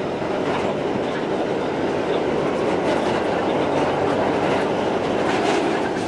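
New York City Subway G train running between stations, heard from inside the car: a steady rumble of wheels on rail, with a few faint clicks of the wheels over rail joints.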